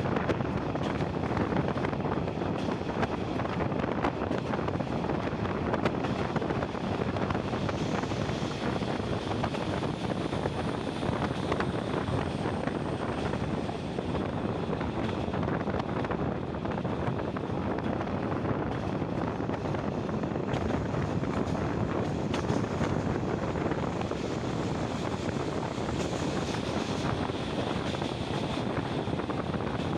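Passenger train running along the line, heard from an open carriage window: a steady rumble of wheels on the rails mixed with wind rushing over the microphone.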